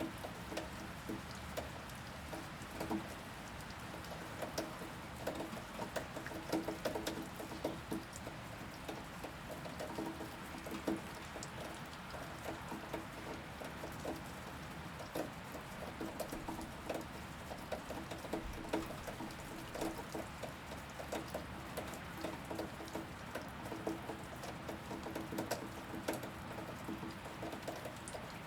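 Steady rain falling, with many irregular louder drops pattering and clicking on a hard surface.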